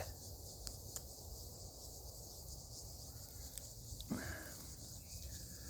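Faint, steady chorus of insects in the bush, with a few light clicks and a short faint noise about four seconds in.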